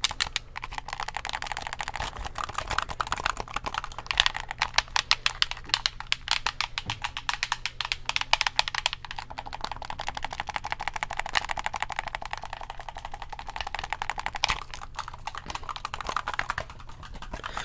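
Rapid typing on a computer keyboard: a dense, unbroken stream of fast key clicks.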